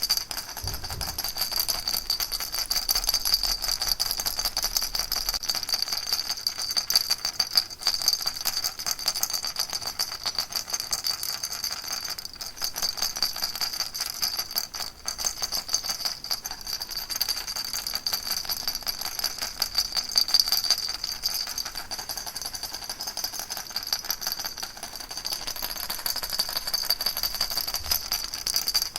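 Baby rattle shaken continuously: a dense, steady rattling with a high ringing edge.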